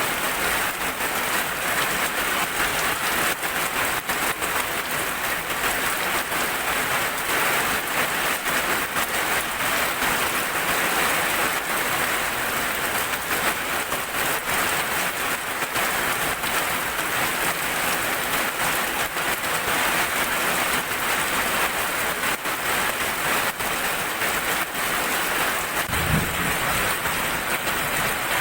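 Steady rain falling, an even, dense hiss of drops, with one brief low thud near the end.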